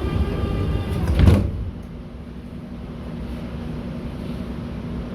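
Sliding doors of an 81-717.6 metro car closing. A rising whine as they move ends in a loud bang about a second in as they shut. A steady low hum of the car follows.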